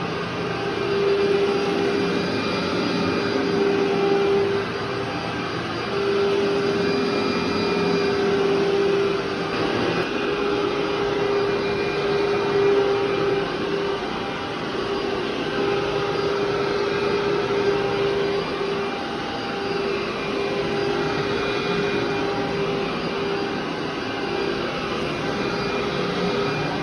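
Vacuum cleaner running steadily with a strong motor hum that dips and breaks off briefly every couple of seconds.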